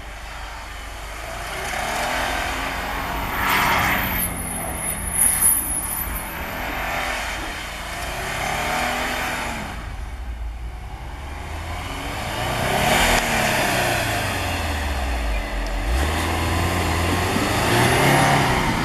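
Subaru Forester's flat-four engine revving up and down several times as the car slides and spins its tyres through deep snow, with a steady rush of snow spraying off the wheels.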